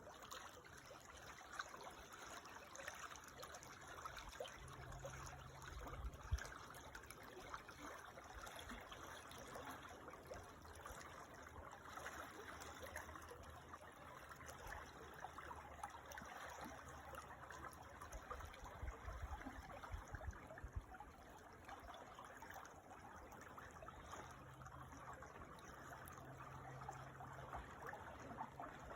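Creek water trickling and flowing steadily, faint, with a soft low hum that comes and goes.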